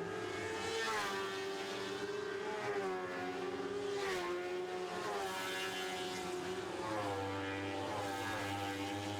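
Several Lightning Sprint race cars running laps together, their high-revving engines turning over 13,000 RPM. The overlapping engine notes drop in pitch and climb again every few seconds as the cars back off for the turns and accelerate down the straights.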